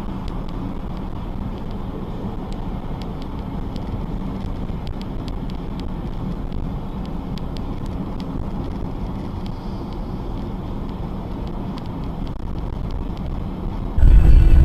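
Steady road and engine noise of a moving car, recorded by a dashcam, with faint scattered clicks. Near the end a much louder low rumble starts abruptly.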